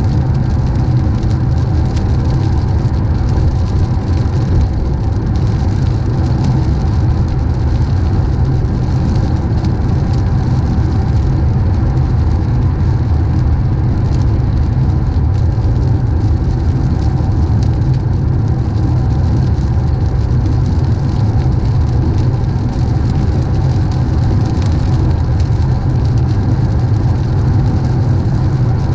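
Car driving on a wet road in the rain: a steady low rumble of road and engine with an even hiss of rain and tyre spray.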